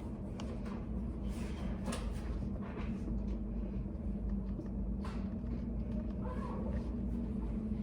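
Study cafe room ambience: a steady low hum with scattered faint clicks and small handling noises.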